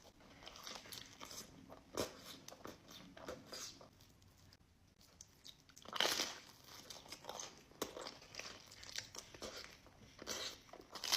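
Close-miked eating sounds: crunchy bites into pizza and chewing, with louder bites about two seconds and six seconds in.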